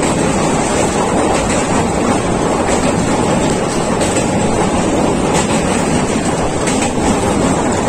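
Passenger train running at speed across a steel bridge, heard at an open window: a steady, loud rush of wheel and track noise mixed with wind buffeting the microphone.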